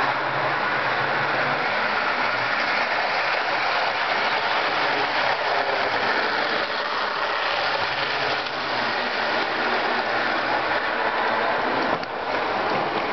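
Jouef HO scale Amtrak Turbo train model running on the layout: its small electric motor and gearing whirring steadily as the wheels roll on the rails. The sound dips briefly near the end.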